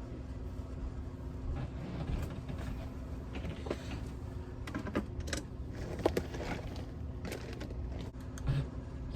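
Objects being handled: scattered small clicks, rustles and light knocks over a steady low hum, with a dull thump near the end.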